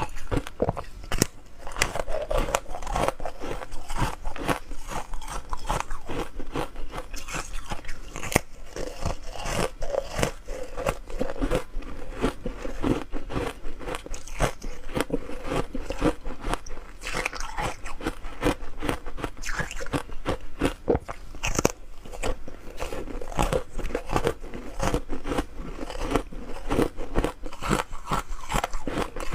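Ice being bitten and chewed by a person, a continuous run of dense crunching and cracking.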